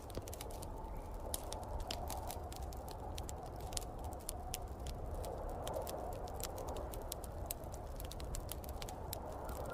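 Wood fire crackling, with frequent sharp irregular pops and snaps over a steady low rushing sound from the snowstorm wind.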